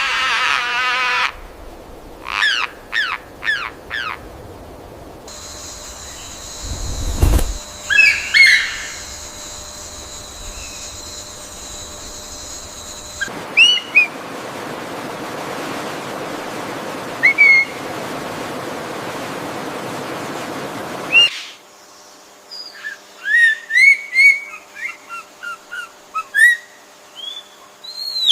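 Wild birds calling: short chirps and quick falling whistles repeated throughout, over changing backgrounds that switch abruptly, first a steady high hum, then a steady hiss. A horse's whinny fades out in the first second, and a single low thump comes about seven seconds in.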